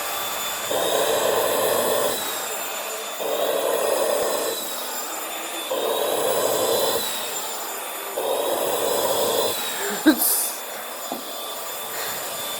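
Vacuum cleaner running with a steady high whine, swelling four times at an even pace, about every two and a half seconds, as the nozzle is worked back and forth. A sharp knock comes about ten seconds in.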